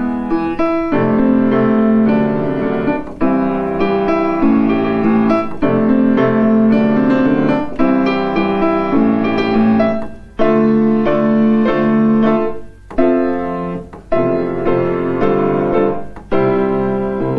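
Solo piano playing full sustained chords, with short breaks between phrases in the second half.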